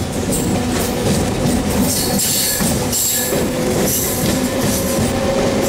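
MEMU electric train running at speed, heard from aboard: a steady, loud rumble and rattle of wheels on the rails and the moving coach.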